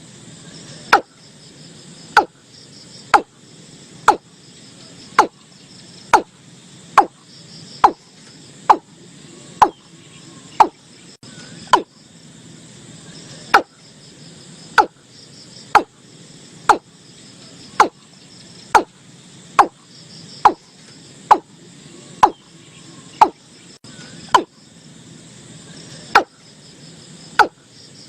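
Watercock calling: a short, sharp, loud note repeated about once a second, with a pause of roughly two seconds twice, over a steady chirring of insects in the background.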